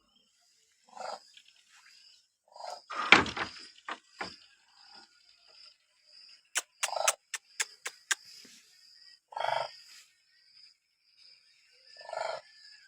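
Demoiselle cranes calling: about five separate calls a few seconds apart, the loudest about three seconds in. A quick run of about six sharp clicks comes just past the middle.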